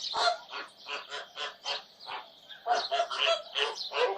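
Farm birds calling in short repeated honking notes, a few a second, growing busier about two and a half seconds in.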